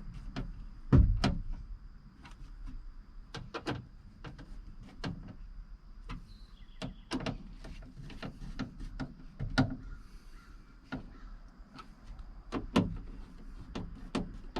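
Irregular clicks, taps and knocks of hands fitting a speaker and plastic trim parts back into a pickup truck's door, with one heavier thump about a second in.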